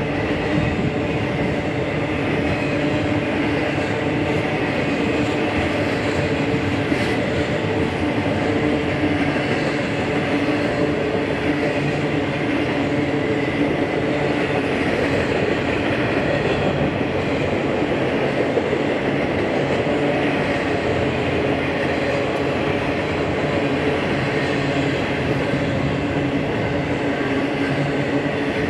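BNSF freight train rolling past on the rails, a steady, unbroken rail noise with a few faint held tones running through it.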